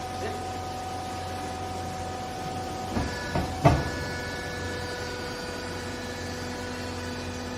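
Hydraulic baler running with a steady hum, broken about three seconds in by three clunks in quick succession, the last the loudest, after which the machine's steady tone changes pitch.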